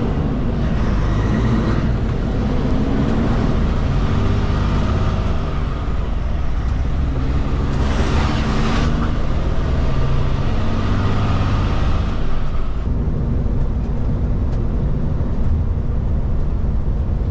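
Kenworth K200 cabover road train's Cummins diesel running steadily under way, heard from inside the cab with the cab fans blowing. A brief hiss comes about eight seconds in.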